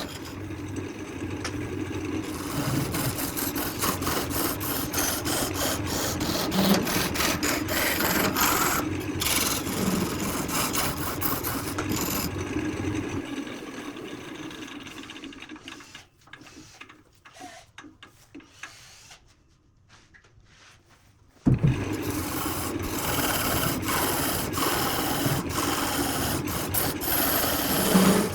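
Wood lathe running with a tool or abrasive rubbing and rasping against the spinning workpiece, with a steady motor hum underneath. The sound fades away about halfway through and is near silent for several seconds, then comes back abruptly.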